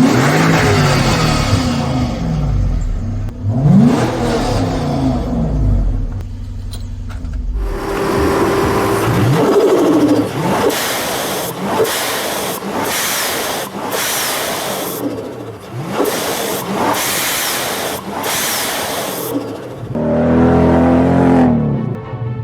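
Toyota/Lexus UZ-series V8 engines revving hard in a run of short clips. Free revs rise and fall in pitch, then the engine note turns on and off rapidly, roughly once or twice a second, before another engine clip near the end.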